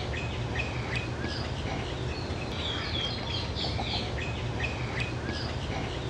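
Wild birds chirping, with short high calls scattered throughout and a quick run of high notes about halfway through, over a steady low rumble.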